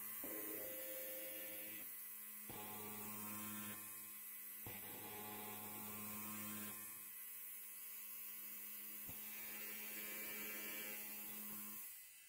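Electric hair clipper buzzing steadily, its tone shifting every couple of seconds, then dropping away near the end.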